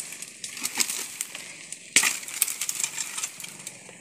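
Sharp knocks and cracks of cashew-tree firewood being cut up and handled. There is one loud strike about two seconds in, among lighter clicks and rustling.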